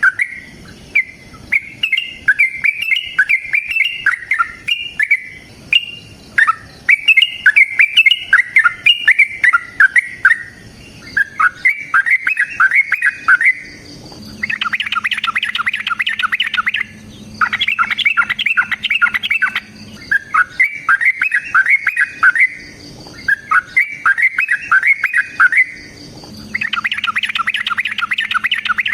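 Yellow-vented bulbul singing a long, loud chattering song: rapid bubbly phrases repeated with short pauses. Several phrases come out denser and harsher.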